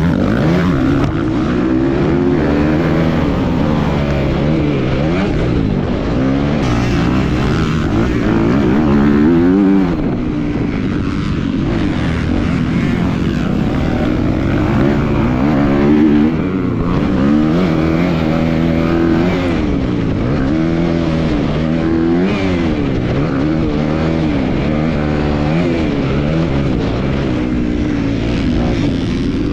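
250cc motocross bike engine under race load, its pitch sweeping up and falling back again and again as the throttle is opened and rolled off, with louder swells about nine and sixteen seconds in.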